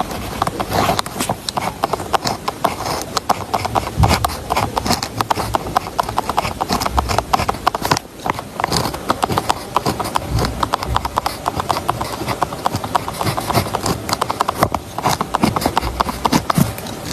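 Rapid, irregular clicking and tapping of desk work, many small sharp clicks a second with an occasional heavier knock.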